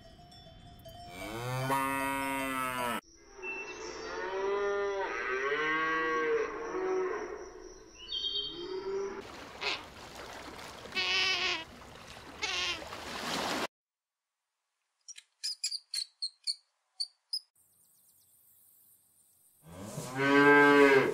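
Cattle mooing: one long moo about a second in and another loud moo near the end. In between come a run of higher, rising and falling animal calls, then a stretch of near silence with a few faint clicks.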